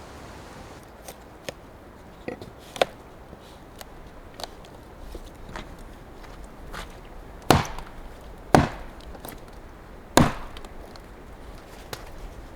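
Firewood being chopped: a run of light taps and knocks, then three heavy blows in the second half.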